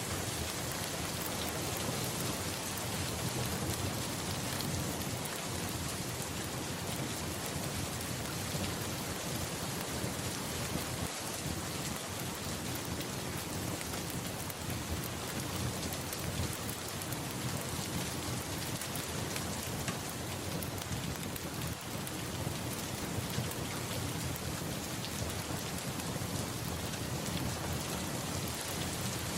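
Steady rain falling, with a low continuous rumble of distant thunder beneath it.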